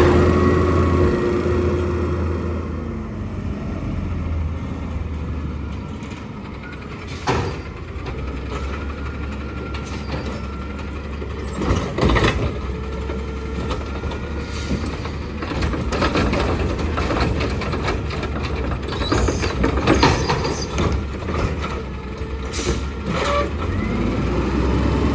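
Garbage truck's diesel engine running steadily, with several short sharp clanks or air releases scattered through it.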